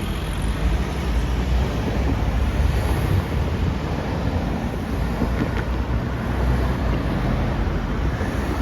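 Wind buffeting the microphone: a steady, noisy rumble with no clear tone or rhythm.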